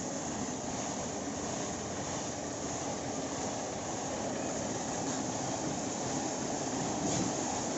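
Tractor engine running steadily, with an even, unchanging drone.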